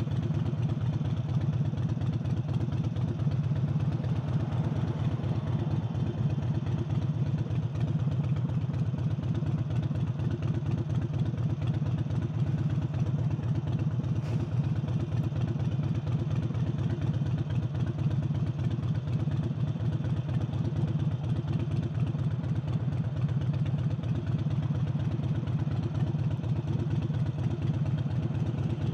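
Harley-Davidson Forty-Eight's air-cooled V-twin, fitted with a new air intake, running steadily at an even throttle while riding, a fast, even stream of firing pulses with no revving.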